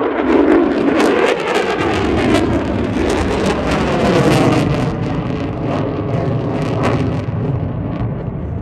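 Military jet flying past at an air show: a loud, continuous roar with crackle, its pitch falling in the first second.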